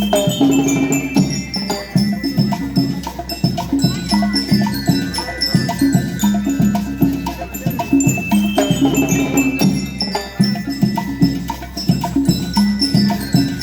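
School rhythm band playing: struck metal bell lyres ring out the melody over a steady beat of drums.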